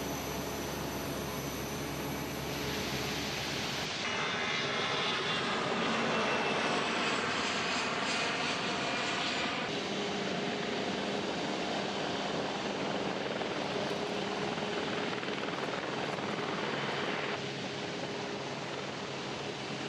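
Jet engines of an Airbus A350 XWB airliner, Rolls-Royce Trent XWB turbofans, running with a steady roar and a whine. The sound changes abruptly several times, about 4, 10 and 17 seconds in, and is loudest between the first two changes.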